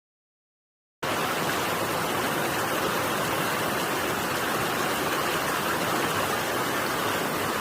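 Mountain valley stream running, a steady rushing water sound that cuts in abruptly about a second in after silence.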